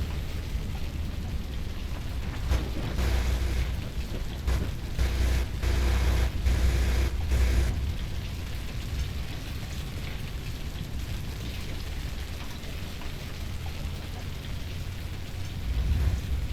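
Rain and storm noise with a steady low rumble, growing louder in gusts from about 2.5 to 8 seconds in.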